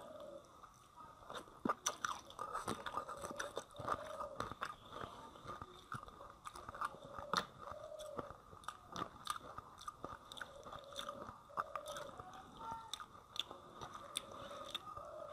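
Close-miked chewing and lip smacking of a person eating rice with fish curry by hand, with fingers squishing and mixing the rice on the plate; many irregular small clicks and smacks.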